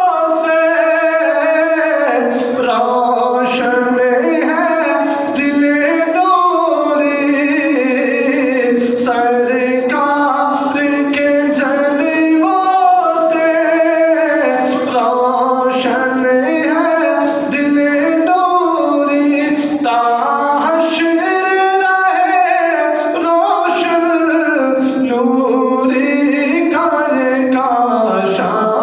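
Solo voice singing a naat, an Urdu devotional poem, in long, drawn-out melodic phrases with bending pitch.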